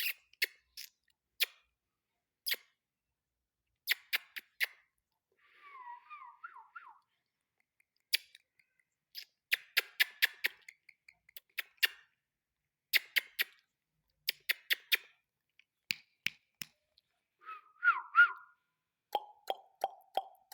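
Female ringneck parakeet giving short whistled chirps, with a quick run of repeated notes near the end, among many sharp clicks.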